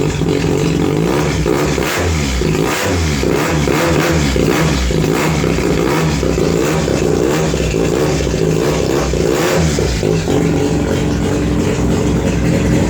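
Mazda 13B two-rotor Wankel engine of a Formula Mazda race car running loud, its revs blipped up and down over and over, then settling to a steady idle about ten seconds in.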